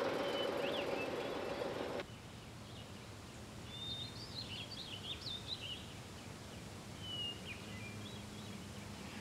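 A steady background drone that cuts off suddenly about two seconds in, then quiet outdoor ambience with small birds chirping, twice in short runs of quick notes.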